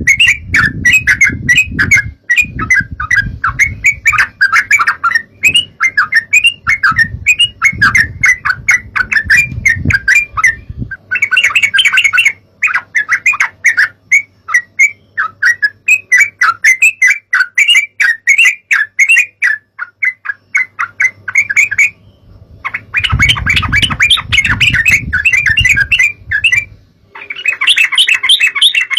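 Yellow-vented bulbul (trucukan) chattering in dense, rapid runs of calls, broken by a few short gaps, with a faint low hum underneath.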